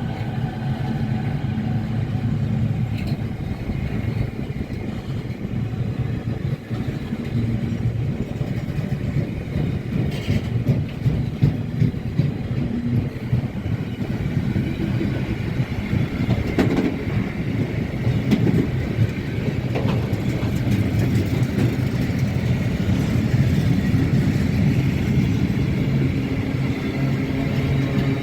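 A train running through a railway station: a steady low rumble of wheels and traction, with scattered clicks and rattles, growing a little louder toward the end.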